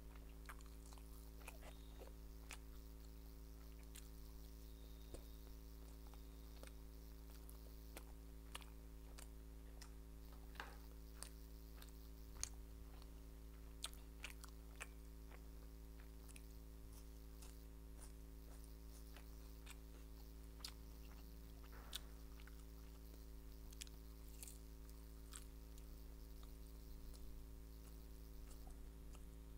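Close-miked eating sounds: irregular soft bites, chewing and sharp wet mouth clicks as steamed momos and noodles are eaten, over a steady low electrical hum.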